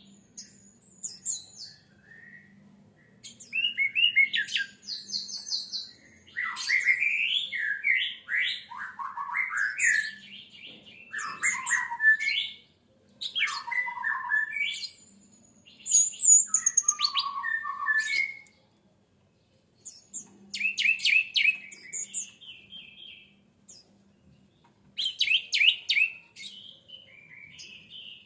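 Orange-headed thrush singing: a run of varied phrases of rich whistles, fast trills and high squeaky notes, broken by short pauses between phrases.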